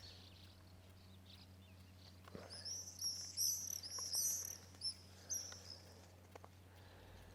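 A small songbird singing a quick run of high, arching chirps for about three seconds, starting a couple of seconds in, with a few faint clicks alongside.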